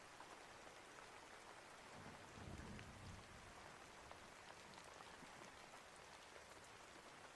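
Quiet, steady rainfall: an even hiss with scattered drop ticks. A brief low rumble rises about two seconds in and fades about a second later.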